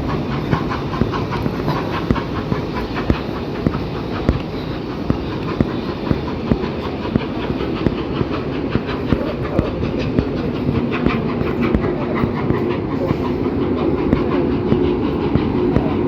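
Steady low rumble of a train, with a sharp click about twice a second.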